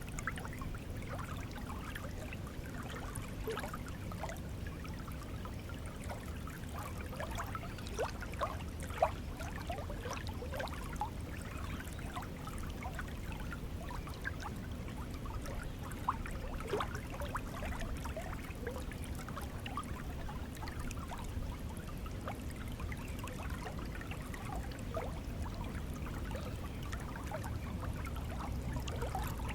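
Shallow water flowing steadily, with a continuous low rush and many small gurgles and trickling plips over it.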